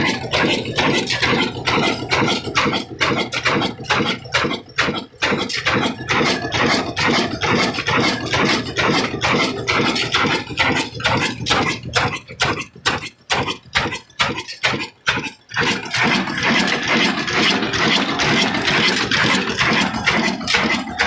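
Old black single-cylinder 'Kala' desi diesel engine running, with a steady, regular beat of firing strokes. From about three-quarters of the way through, a steadier hiss rises over the beats.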